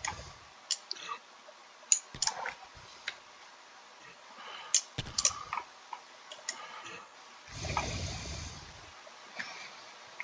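Scattered sharp clicks at irregular intervals while units are placed in a strategy game, with a brief muffled noise about three quarters of the way through.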